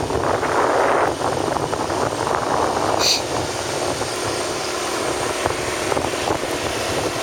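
Steady rumble and rush of a vehicle moving along a road, with one brief high-pitched squeak about three seconds in.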